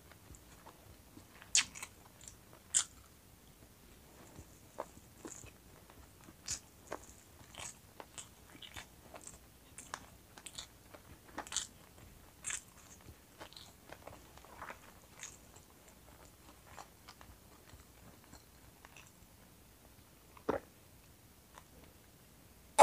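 Close-miked eating sounds: a person chewing roast chicken wing and rice, with wet mouth smacks and small clicks scattered irregularly. A few sharper taps stand out, two about two seconds in and one near the end.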